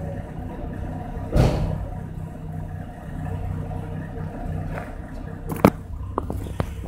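BMW E36 1.6 four-cylinder engine idling steadily through its exhaust. A brief loud burst comes about a second and a half in, and a few sharp clicks near the end.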